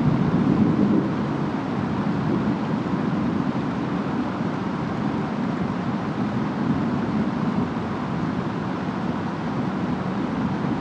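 Rainstorm ambience: rain and wind as a steady, even rush with a deep low rumble, a little louder for about the first second.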